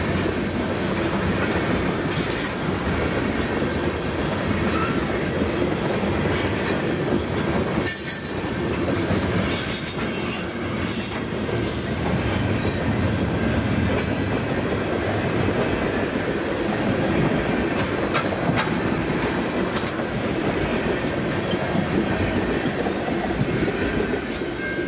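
Freight cars (tank cars, covered hoppers and a gondola) rolling past, their steel wheels clattering on the rail, with stretches of high-pitched wheel screech in the middle. The last car goes by near the end.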